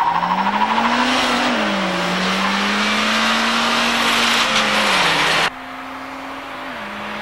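Two Nissans, a Pulsar GTI-R and a 300ZX, accelerating hard side by side from a standing start, over road and wind noise. The engine note climbs and drops at each upshift. About five and a half seconds in the sound cuts suddenly to a quieter, more distant engine note that steps down once more at another upshift.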